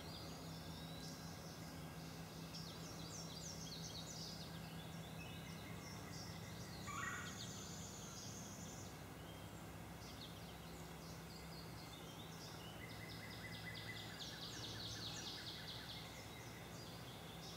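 Faint woodland ambience with several birds singing in the background, repeated high trills and chirps, and one sharp descending call a little before halfway. A low steady hum runs underneath.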